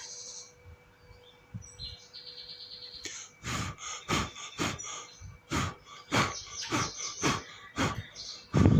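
Yellow-vented bulbul (trucukan) chicks calling: a fast, high rattle about two seconds in, then a run of short harsh calls about twice a second, the loudest near the end.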